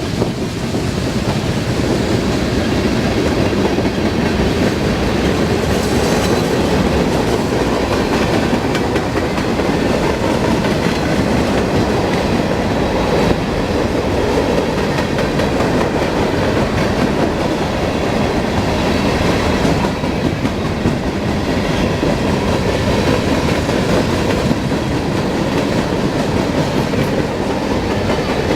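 A train's cars rolling past at close range, a steady rumble with the wheels clacking over the rail joints.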